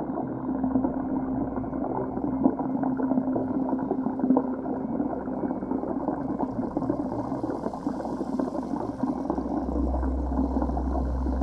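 Moving water recorded underwater: a muffled, gurgling rush with a steady low hum. A deeper rumble comes in near the end.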